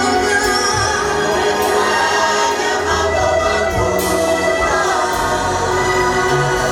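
A gospel choir singing a worship song with instrumental backing, the voices holding long notes.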